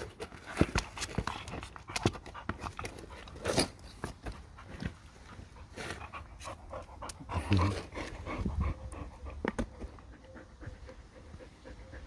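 A Border Collie panting, with scattered clicks and knocks throughout and a heavier thump about seven and a half seconds in.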